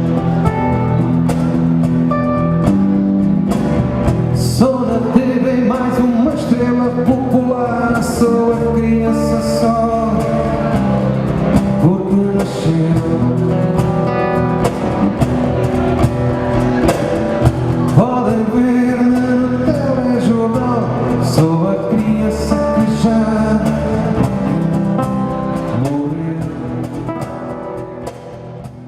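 Live band music with no words sung, fading out over the last few seconds.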